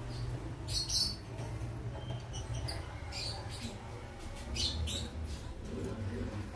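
Lovebirds giving short, high-pitched chirps and squeaks, several scattered through, over a steady low hum.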